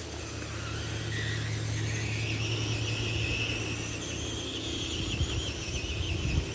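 Tamiya TXT-2 RC monster truck driving, its motor and gearing giving a high whine that rises and falls with the throttle over a steady low hum, with a few knocks near the end.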